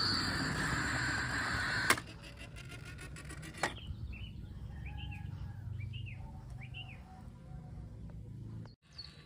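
A steady noise that stops with a sharp click about two seconds in, then a few short bird chirps.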